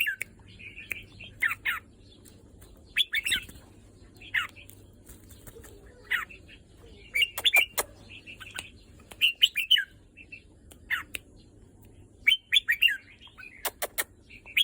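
Red-whiskered bulbul singing short, liquid whistled phrases, repeated every second or two, with a few sharp clicks between them.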